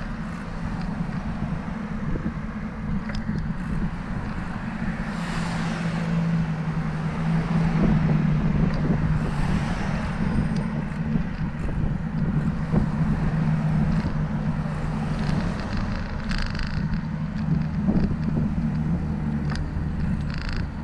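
Wind rushing over the microphone of a camera on a moving bicycle, with road traffic going by: a couple of vehicles swish past, and a steady engine hum runs through the middle.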